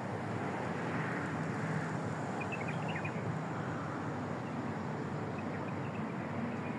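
Steady outdoor background noise with no clear single source, and a few faint high chirps about two and a half to three seconds in.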